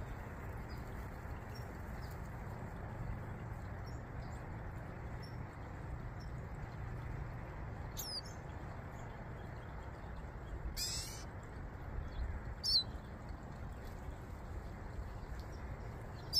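Four short, high-pitched songbird chirps, scattered through the second half, with the loudest near the end, over a steady low background hum.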